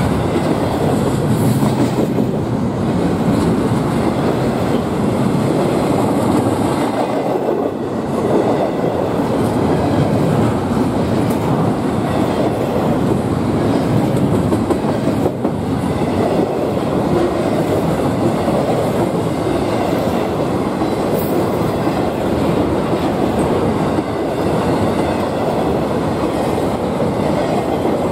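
A freight train's cars rolling steadily past at close range, a loud, continuous rumble and rattle of wheels on the rails.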